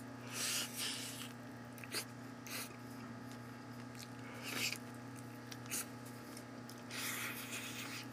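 Biting and chewing sauced fried chicken close to the microphone: several short, crunchy bites at intervals, the longest about half a second in and near the end, over a steady low hum.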